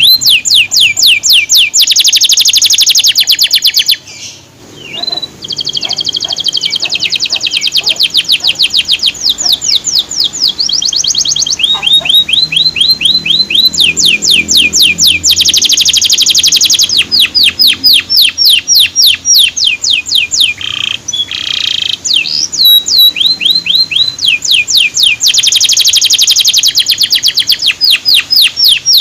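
Male canary singing in fast runs of repeated high notes, each note sliding down in pitch, moving from one trill to the next. The song breaks off briefly about four seconds in.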